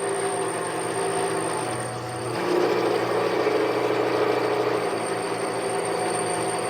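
Harbor Freight mini lathe running under cut, putting a large hole through a workpiece: a steady motor hum with rough cutting noise, getting a little louder about two and a half seconds in.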